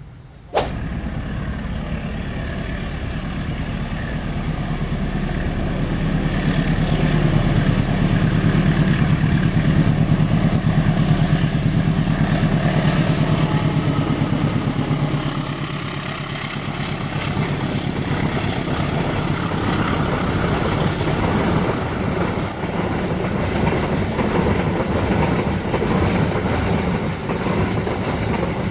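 A train passing close by on the track, a steady heavy rumble that grows loudest about a third of the way in and carries on to the end. A sharp click sounds just after the start.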